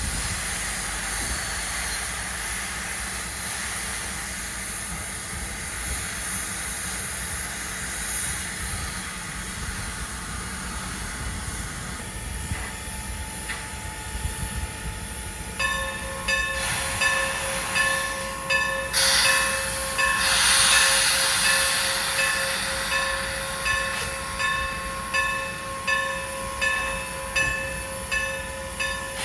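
Former Norfolk and Western 475, a steam locomotive, running with a steady rumble and hiss of steam. From about halfway a ringing tone joins, pulsing about once a second, and a loud burst of hissing comes around two-thirds of the way in.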